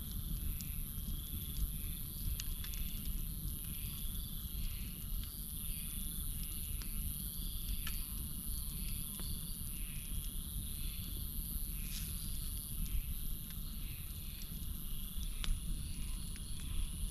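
Campfire burning and crackling with scattered sharp pops, over a night chorus of crickets and frogs: a steady high insect trill and a pulsing call repeating about twice a second.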